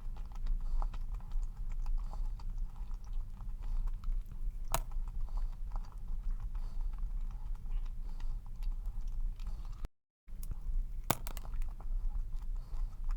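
Close-up eating sounds: chewing a dense cream-cheese cup cookie, with irregular small clicks and smacks and a couple of sharper clicks, over a steady low hum. The sound drops out briefly just before halfway through.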